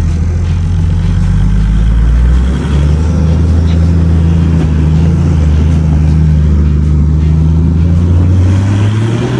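Toyota 1HD-FTE 4.2-litre turbo-diesel straight-six running loudly and steadily. Its note shifts about two and a half seconds in and rises near the end as it revs up.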